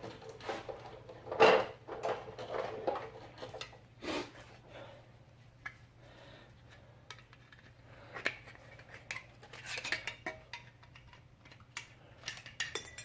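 Light metallic clicks, clinks and scrapes, with louder clanks about one and a half and four seconds in, as a metal clip for the electrical connector is worked off an old front wheel hub assembly.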